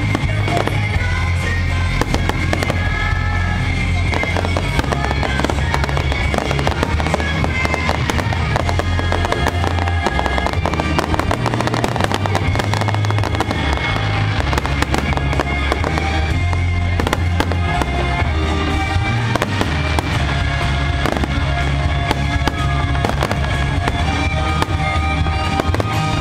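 Fireworks display: aerial shells bursting one after another in a steady barrage, over music with a sustained, changing bass line.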